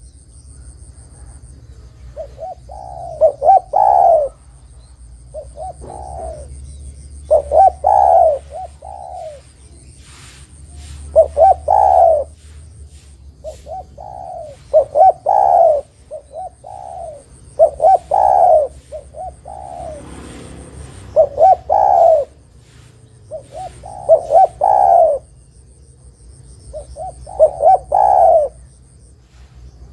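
Spotted dove (derkuku) cooing: short phrases of two to four notes, repeated about every three seconds, with a faint steady high whine behind.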